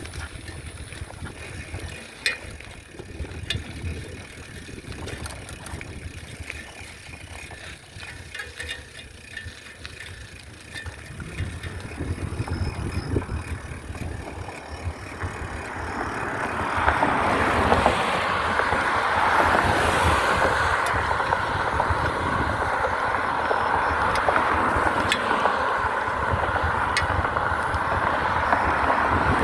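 Wind and rolling noise from a bicycle being ridden, with a low rumble and scattered clicks at first. About halfway through, a steady hiss builds up and stays louder.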